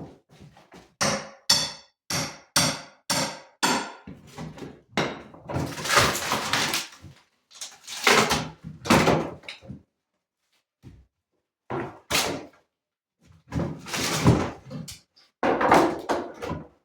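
Repeated hammer blows, about two a second for several strikes, then a few longer, noisier knocks and crashes, typical of demolition or fixing work in a small room under renovation.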